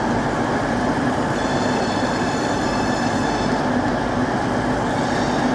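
Freightliner Class 66 diesel locomotive's two-stroke V12 engine running as it hauls a train of tank wagons past, with the steady rumble of the rolling train. A faint high squeal of wheels comes in about a second and a half in and fades after about two seconds.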